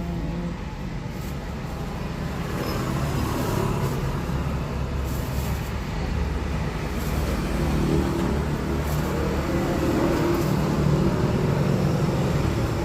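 Road traffic: motor vehicle engines running past, a steady low rumble that grows louder over the second half.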